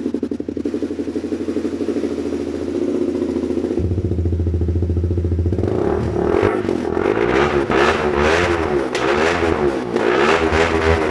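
Honda CBR motorcycle with a Leo Vince Cobra full exhaust system, idling steadily just after start-up. From about six seconds in it is revved in a series of throttle blips, the exhaust note rising and falling repeatedly.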